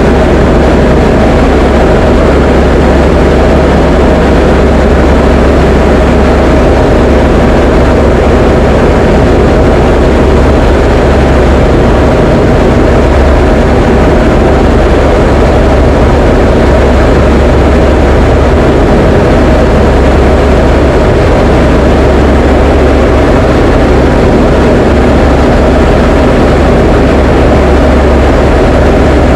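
Diamond DA20 light aircraft's piston engine and propeller running steadily in flight, heard from inside the cabin as a loud, even drone with no change in power.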